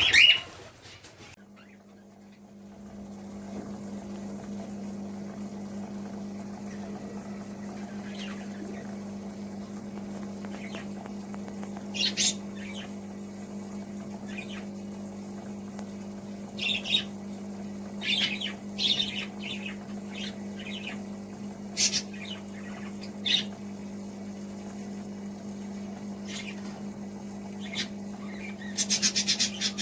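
Caged pet birds giving short, scattered chirps and squawks over a steady low electrical hum.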